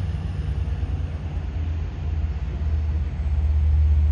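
Long Island Rail Road train approaching the station, a low rumble that grows louder over the last couple of seconds.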